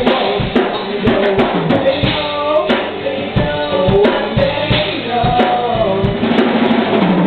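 Live rock band playing an instrumental passage: drum kit with kick and snare keeping a steady beat under guitars and bass.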